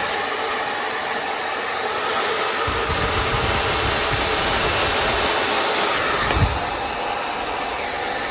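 BaBylissPRO Nano Titanium Portofino 2000-watt hair dryer running with a steady rush of air. A deeper rumble comes in for a few seconds in the middle, with a brief bump about three quarters of the way through.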